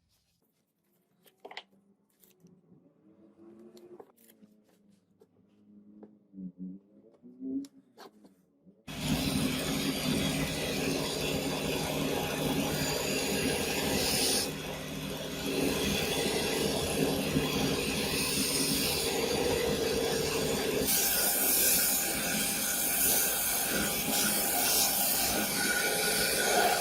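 Faint rubbing and a few sharp clicks on metal work, then about nine seconds in a power tool starts up and runs loudly and steadily, grinding or sanding, its tone shifting a couple of times.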